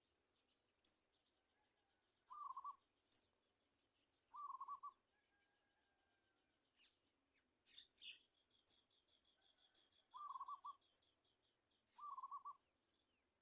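Birds calling: short, sharp high chirps every second or two, traded with four brief low quavering trills, and a faint fast rattling trill in the middle.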